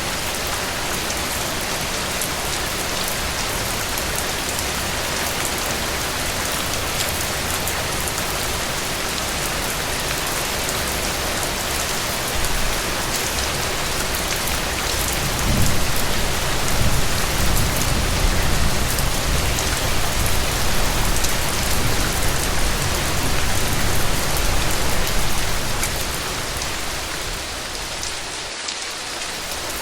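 Steady rain falling on a cabin roof, with fine ticks of single drops. About halfway through, a low rumble of distant thunder swells and rolls on for about ten seconds, then fades.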